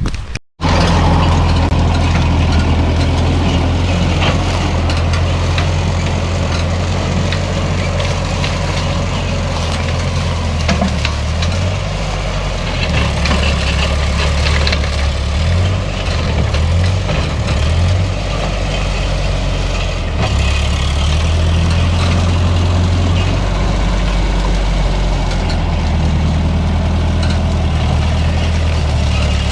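Old Ferguson tractor's engine running steadily, its pitch shifting up and down a few times in the middle as the load or throttle changes.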